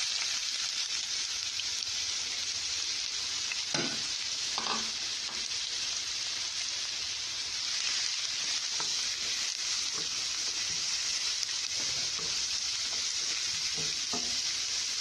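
Chopped onions sizzling steadily in hot coconut oil in a pan, with a few light knocks of a spoon being stirred in the pan.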